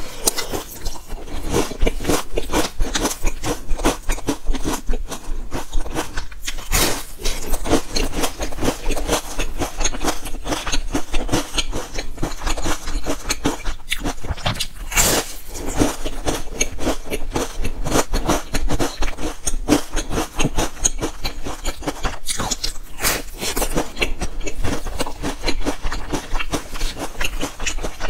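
Close-miked biting and chewing of a crisp, round waffle-patterned biscuit: steady crackly crunching throughout, with louder bites about seven, fifteen and twenty-three seconds in.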